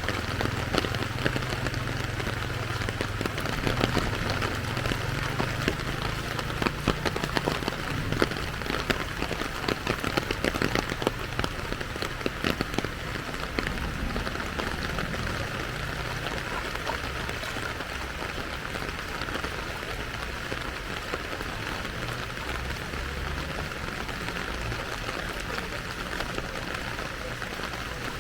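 Steady rain falling, with a dense patter of close drops ticking that is thickest in the first half.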